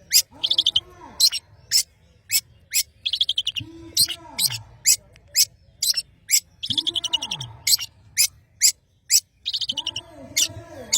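Long-tailed shrike (cendet) singing in full voice: sharp, high chips repeated about twice a second, broken by several harsh, buzzy rattles. Lower falling calls sound faintly a few times underneath.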